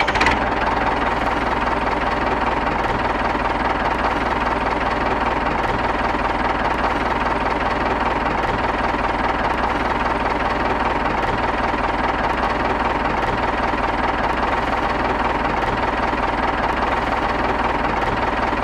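Steady engine-like running sound of a miniature DIY model tractor pulling a loaded trolley, with a constant rough rumble and a faint high tone.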